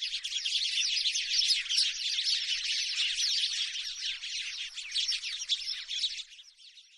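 House sparrows chirping in a dense, rapid chatter of overlapping chirps, which fades away about six seconds in.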